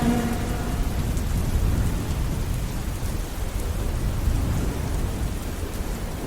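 Steady rain ambience, a dense even hiss heavy in the low end, slowly fading toward the end. The last held notes of the slowed song die away within the first second.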